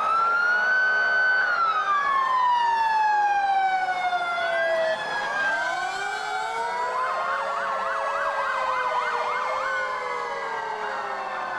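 Several fire engine sirens sounding together: one wail rises, holds, then slides slowly down, while others wail over it, and a fast yelp joins in about seven seconds in.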